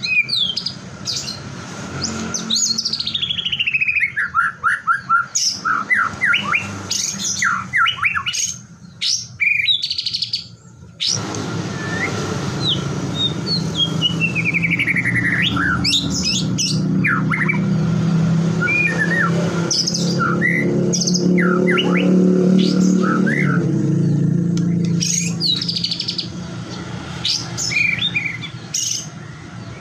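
White-rumped shama (murai batu) singing a loud, varied song of clear whistles, chattering notes and fast trills that slide down in pitch. A low steady hum joins about a third of the way through.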